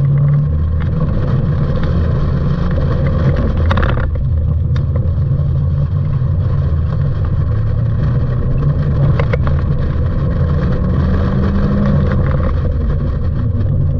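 Mazda Miata's four-cylinder engine working hard through an autocross course, heard from the open cockpit, its pitch shifting as the driver accelerates and lifts between cones, with a rise in revs near the end.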